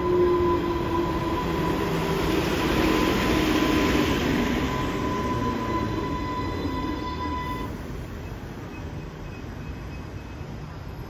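Class 230 multiple unit (rebuilt ex-London Underground D78 stock) pulling away from the platform. Its running rumble and whine fade steadily as it draws off, and a steady high whine cuts out about eight seconds in.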